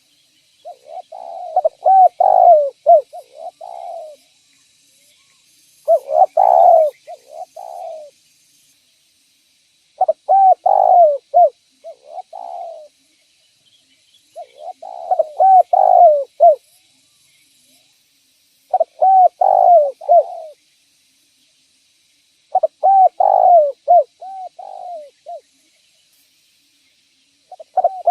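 Spotted dove (derkuku) cooing: phrases of several short, rising-and-falling coos, each phrase two to three seconds long and repeated about every four seconds. Six full phrases, with a seventh starting near the end.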